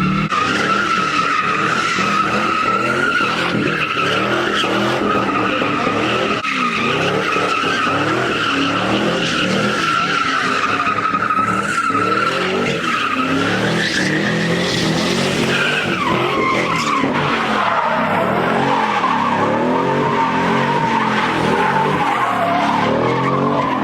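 A car spinning its tires at a meet: a long, loud, continuous tire squeal over an engine revving up and down. The squeal's pitch drops noticeably about two-thirds of the way through.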